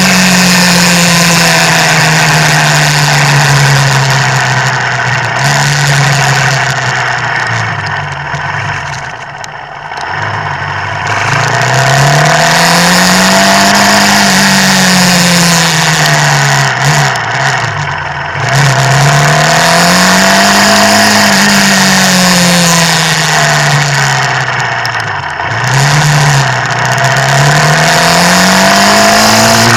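Motorcycle engine heard from the bike itself, its pitch rising and falling several times as the rider accelerates and eases off, with deeper dips about a third and two thirds of the way through, over a steady rushing noise.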